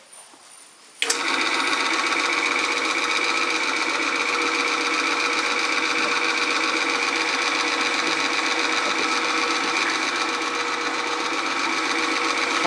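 A small motor-driven machine switches on about a second in and runs steadily, with several fixed whining tones over a fast mechanical buzz.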